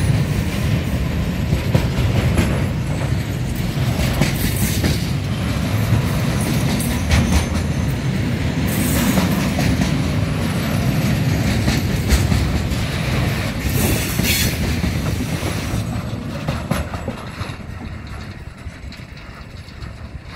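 Container freight train's wagons rolling past close by, wheels rumbling and clattering over the rail joints, with a couple of brief high screeches. The sound fades over the last few seconds as the end of the train moves away.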